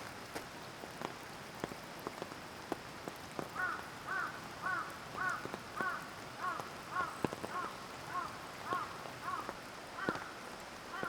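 Rain dripping and pattering in a forest over the steady rush of a mountain stream, with scattered sharp clicks of falling drops. From about three and a half seconds in, a bird calls in a long, even series, a clear arching note repeated a little under twice a second.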